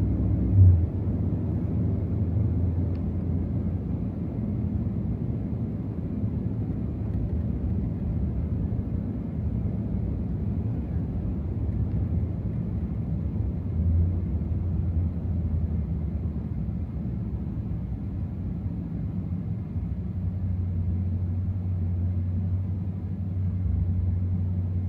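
Steady low drone of a 2024 Ram TRX being driven, its supercharged 6.2-litre V8 cruising with road noise, with a short louder bump about a second in.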